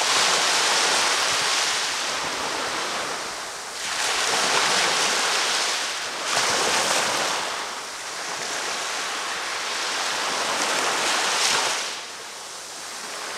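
Ocean waves breaking and washing up the beach, a rushing hiss that swells and fades as each wave comes in, four surges, then easing near the end.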